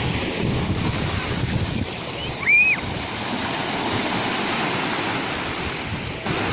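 Sea waves breaking and washing ashore, a steady rushing noise. One brief high whistle-like call comes about two and a half seconds in.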